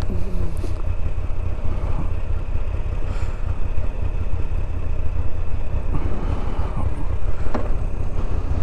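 Moto Guzzi V85TT's air-cooled V-twin idling while the bike stands pulled over, with a steady low rumble of wind on the microphone.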